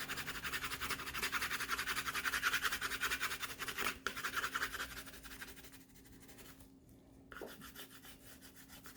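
Coloured pencil shading on paper in fast back-and-forth scratching strokes. The strokes go steadily for about five seconds, then turn much fainter.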